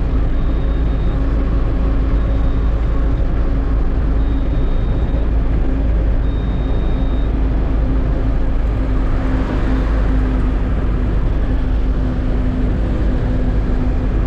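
Eicher truck running on the road: steady low engine rumble and hum with road noise. A faint high-pitched beep sounds in short pulses every second or two during the first half, and there is a brief swell of hiss about nine seconds in.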